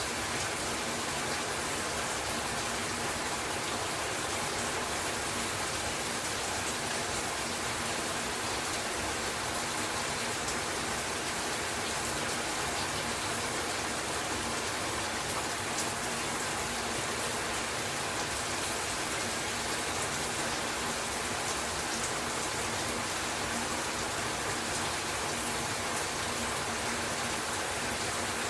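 Bathroom shower running, a steady spray of water with no breaks.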